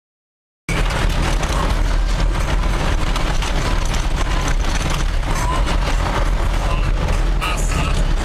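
A 1995 GMC Suburban driving fast on loose gravel: a steady, loud, deep rumble of tyres and running gear, with a constant crackle of gravel under the truck. It starts abruptly under a second in.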